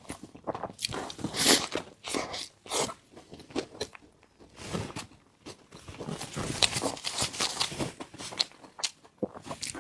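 Close-up eating sounds: a person biting and chewing food with a run of irregular crunches and wet mouth smacks.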